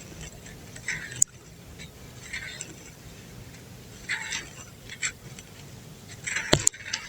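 Chunks of dry brown dirt crumbling in several short crunchy bursts, with a couple of sharp cracks, over a faint steady low hum.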